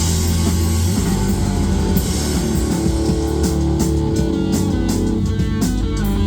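Live rock band playing an instrumental passage: sustained guitar chords over a drum kit, with the drum and cymbal hits standing out more clearly in the second half.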